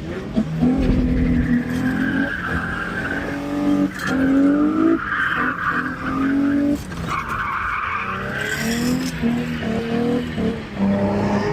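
A car's engine revving hard in repeated rising surges while its tires squeal against the pavement: a car spinning its wheels in a burnout or donut.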